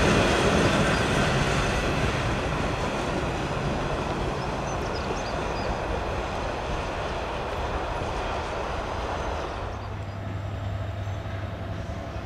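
A diesel-hauled train passing and moving away, its wheels running over the rails, the noise fading steadily. Near the end the rail noise thins out and a steady low hum remains.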